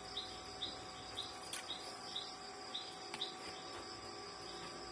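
Faint background chirping: short high chirps repeating about twice a second over a steady high-pitched insect drone, with a couple of light clicks.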